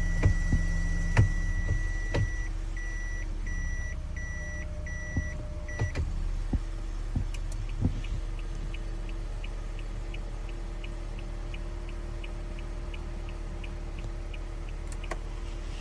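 Toyota Esquire (80-series) cabin reverse buzzer: a steady high beep that turns into evenly spaced beeps, over the low hum of the idling car. After a few clicks, the turn-signal indicator ticks steadily, about two to three ticks a second.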